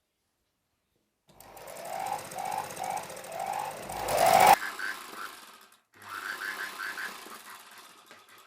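Sewing machine stitching a seam in two runs: the first ends suddenly at its loudest, and after a short pause the second dies away.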